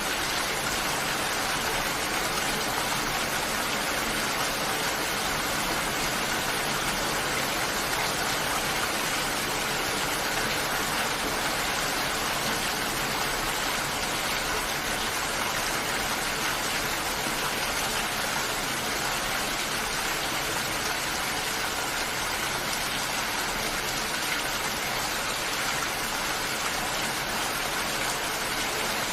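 Steady, continuous rain falling, an even hiss with no thunder or distinct drops standing out.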